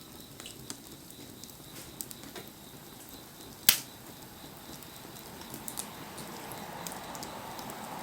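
Wood fire crackling, with scattered small pops and one sharp, loud crack about three and a half seconds in; a soft hiss grows over the last two seconds.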